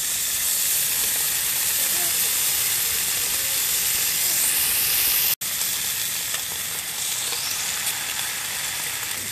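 Thick-cut bacon slabs sizzling in a cast-iron skillet with a steady hiss. The sound cuts out for an instant about five seconds in; after that an egg is frying in the pan as well.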